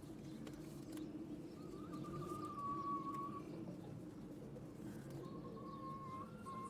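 Birds calling: a low, continuous cooing murmur, with a thin, steady high note about two seconds in and another near the end.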